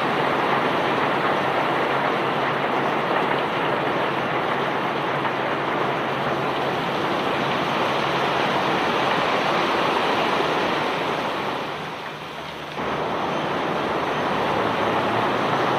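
Steady rushing noise of iron ore and river rock pouring off a barge during unloading. It sags for about a second near the end and then comes back suddenly.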